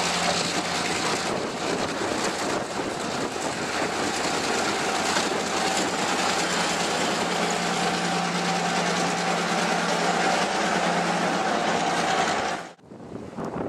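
Freight train rolling past close by, its wheels and cars clattering over the rails; then a CSX diesel locomotive goes by with a steady engine hum over the rail noise. The sound cuts off suddenly near the end.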